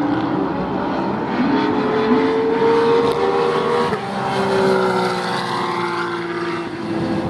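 Racing car engine running at the track under power, its pitch climbing slowly, then stepping down about four seconds in and easing lower.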